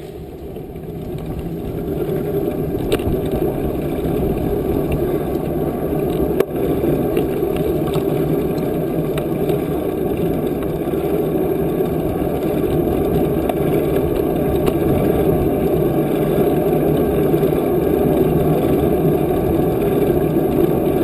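Wind rushing over the microphone of a camera carried along on a moving bicycle: a steady low rumble that builds over the first few seconds and then holds. A single sharp click comes about six and a half seconds in.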